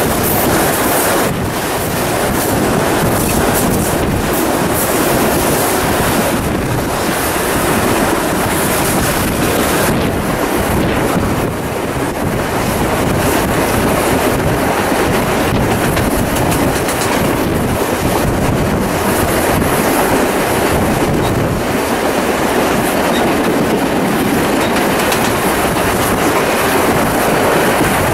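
Steam-hauled passenger train running, heard from an open carriage window: steel wheels rolling on the rails under a steady rush of wind.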